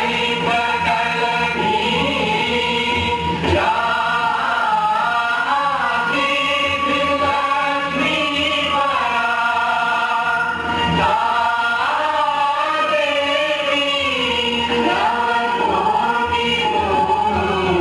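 Devotional music: a choir singing long, sustained notes with gliding pitch over a steady held drone.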